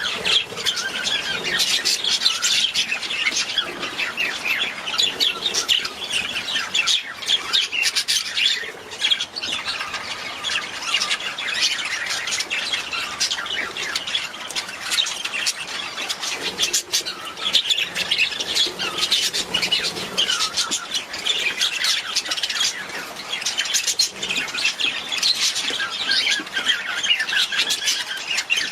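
A flock of budgerigars chattering and warbling with rapid overlapping chirps and squawks.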